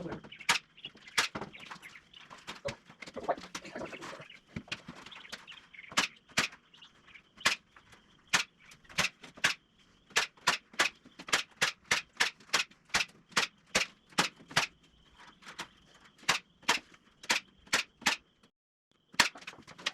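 Hammering: sharp strikes in quick succession, about two to three a second, with a short break near the end.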